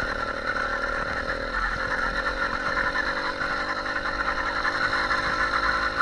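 Small motorbike engine running steadily, just started without pedalling.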